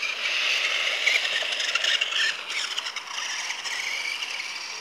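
Small electric motor of a radio-controlled toy car whining as it drives, with its wheels and body scraping and rattling over the ground. It is louder in the first half and eases off about halfway through.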